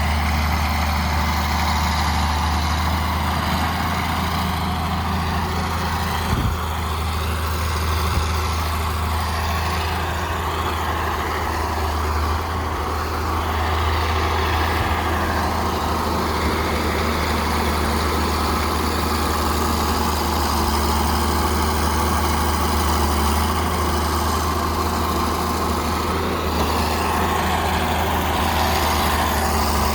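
Bulldozer's diesel engine running at a steady, even pitch, with a couple of light knocks a few seconds in.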